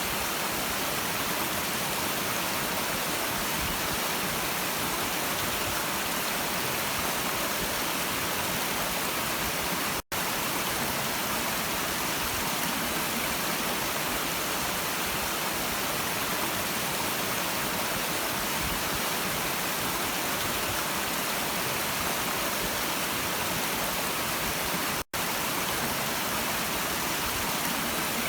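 Stream water flowing: a steady, even rushing noise, strongest in the hiss range. It cuts out to silence for an instant about ten seconds in and again near the end.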